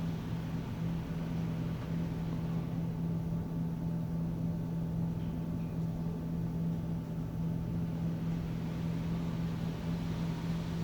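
Steady mechanical hum of a touchless car wash's equipment running, heard from inside a vehicle's cabin, with one low drone and a faint hiss above it.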